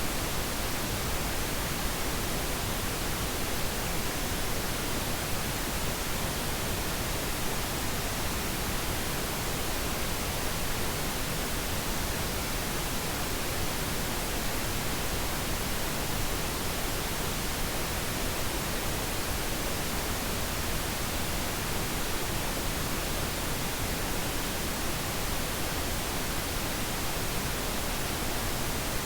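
Steady, unchanging pink noise, an even hiss spread across all pitches, made as a sleep aid for babies.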